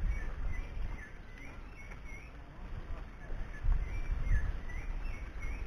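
A small bird chirping over and over in short rising-and-falling notes, with gusts of wind rumbling on the microphone that swell about two-thirds of the way through.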